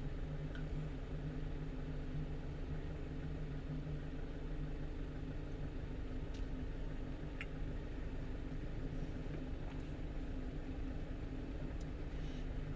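Steady engine and road noise heard inside the cab of a 1-ton truck on the move, a low even hum with a couple of faint ticks about halfway through.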